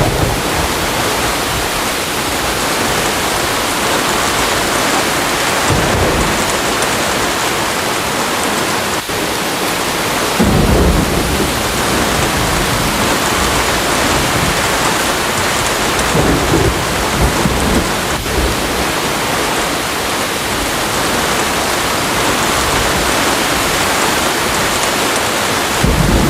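Steady heavy rain, with thunder rumbling low several times: about six seconds in, a longer roll around ten to twelve seconds, again around sixteen seconds, and near the end.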